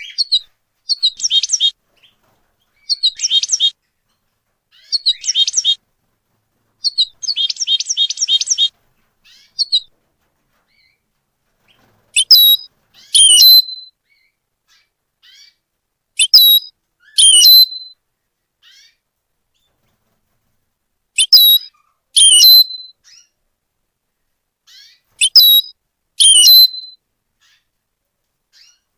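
A small songbird singing in short chirping phrases with clean silence between them: quick phrases about every two seconds at first, then, from about twelve seconds in, louder two-part phrases about every four to five seconds.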